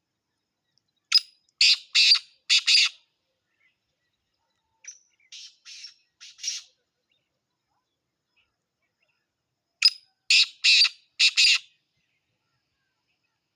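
Black francolin (kala teetar) calling: three phrases of five or so harsh, grating notes, the middle phrase fainter than the other two.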